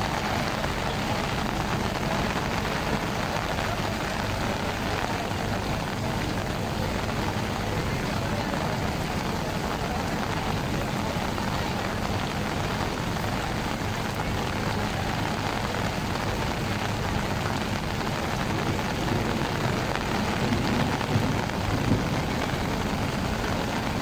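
Heavy rain falling as a steady, even hiss, with a few louder moments about twenty seconds in.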